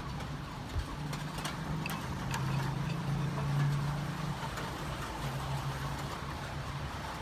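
Scattered raindrops ticking and tapping over a faint hiss, with a steady low engine-like hum that swells in the middle and comes back near the end.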